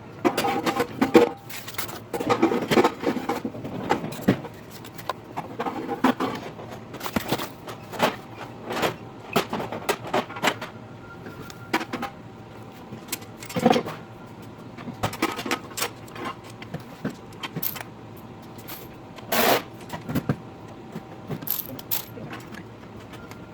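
Rapid, irregular clinks, knocks and scrapes of metal grill parts and hardware being handled and fitted together.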